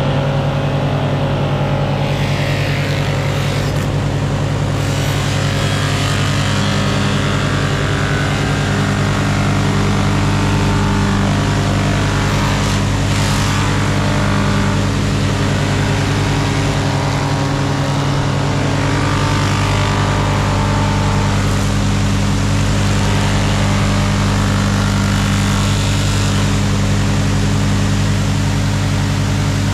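A motor running with a steady, unchanging hum, loud and even throughout.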